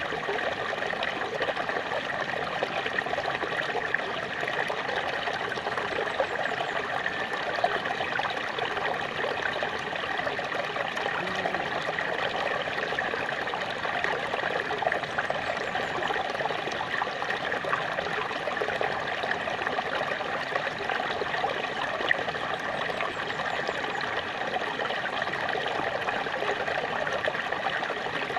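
Small waterfall splashing and trickling steadily, water falling over rocks in a continuous bright rush.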